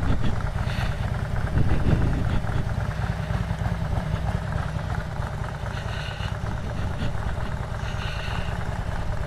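Harley-Davidson Road Glide's V-twin engine running steadily at low revs while the bike rolls slowly.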